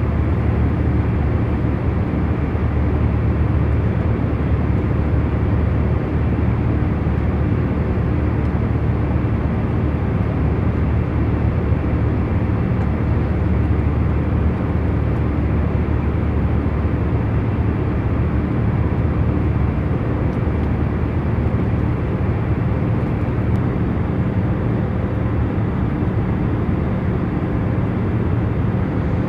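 Jet airliner cabin in cruise flight: a steady, even low rumble with a faint hum, unchanging throughout.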